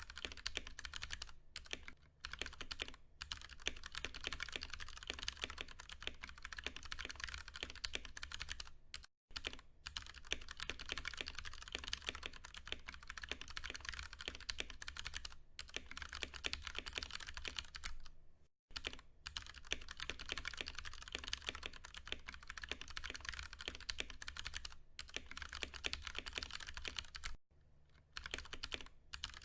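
Continuous fast typing on a Ducky One 2 Mini mechanical keyboard with tactile, non-clicky Cherry MX Brown switches: a dense run of key clacks, broken by brief pauses three times.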